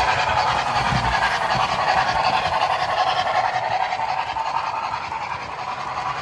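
A train running, with a steady hiss over a low rumble.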